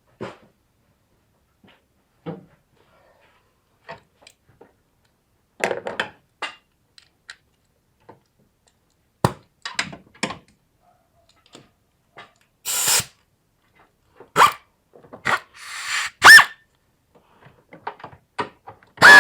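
Irregular short knocks, clicks and clatters, with two brief scraping bursts near the middle and later.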